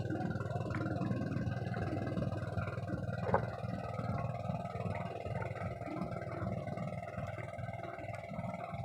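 Boat engine running steadily, with one brief knock about three seconds in.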